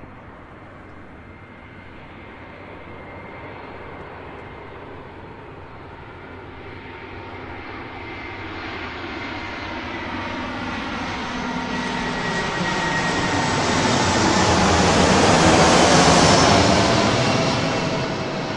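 Jet aircraft flying past: a rising roar that builds slowly to its loudest about sixteen seconds in, the engine's whine gliding down in pitch as it passes, then fading.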